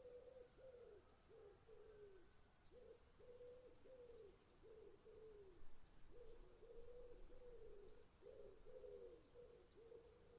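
Faint low hooting bird calls, a long run of short falling notes with a brief break near the middle, over faint, evenly repeated cricket chirps.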